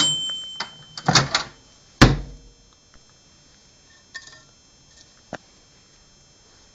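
Microwave oven giving a steady beep for about a second, then the clicks and clunks of its door being worked, the loudest a single thunk about two seconds in.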